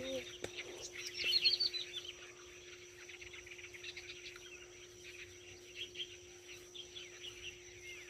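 Small birds chirping, with a quick run of high, falling chirps about a second in, then faint scattered chirps, over a thin steady high tone.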